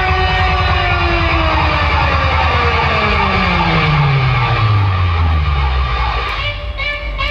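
Loud DJ music played over a large street sound system, heavy in the bass. A long falling pitch sweep slides down into the bass over several seconds. A new beat with regular hits comes in near the end.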